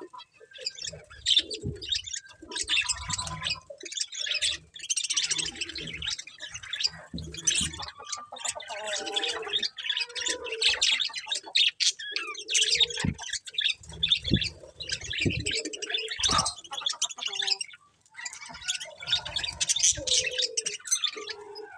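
Budgerigars chirping and warbling continuously, a busy mix of quick high chirps and chatter.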